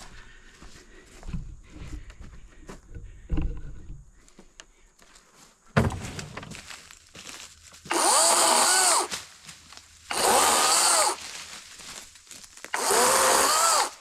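Gas chainsaw revved in three short bursts of about a second each, its pitch rising and falling within each burst, after a few dull thumps in the first half.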